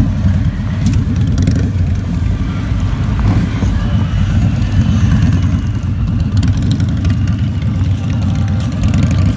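Avantura chopper motorcycle engine running steadily, its exhaust giving a loud, deep, even rumble.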